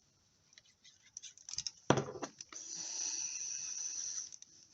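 Sheets of cardstock being handled on a craft table: a few light ticks, a sharp knock just under two seconds in, then about two seconds of steady rubbing or sliding of card.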